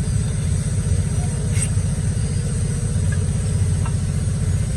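A car engine idling steadily, a low even throb.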